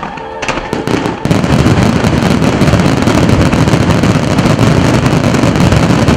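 Finale barrage of a wide star mine fireworks display. A few separate bangs come first, then about a second in a dense, continuous roll of crackling and booming begins as many shells burst at once.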